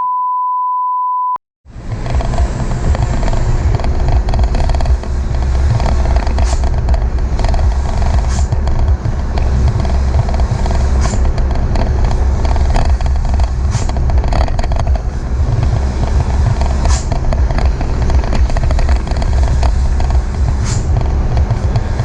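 A steady electronic beep tone lasting just over a second, then a short gap. After that a Euro 4 diesel truck with an FRM racing muffler runs steadily on the move, a deep continuous rumble mixed with road noise.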